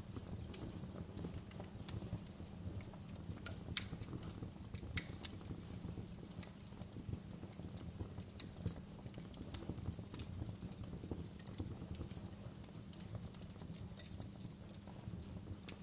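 Wood fire crackling in a fireplace: irregular pops and snaps over a low steady rumble of the flames, with one sharper pop about four seconds in.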